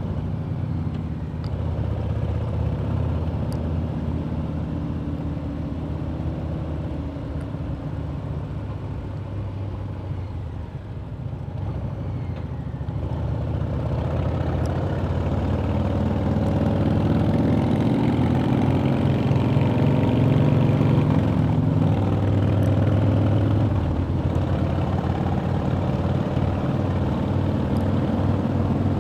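Harley-Davidson V-twin motorcycle engine running at a steady, moderate pace on the road, heard from the bike. The engine note dips about ten seconds in, then grows louder and fuller and holds there.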